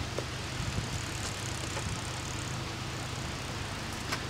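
Steady low hum of road vehicles idling in traffic, with a faint click near the end.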